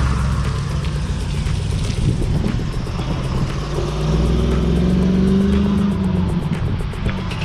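Vehicle engine running under way, its pitch rising from about four seconds in as it speeds up, then easing off near six seconds.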